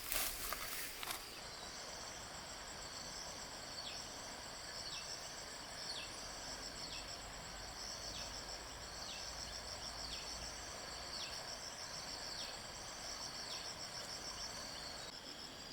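Insects trilling in a steady high chorus, with a short falling chirp repeating about once a second. A few rustling, scuffing clicks in the first second, like footsteps or handling.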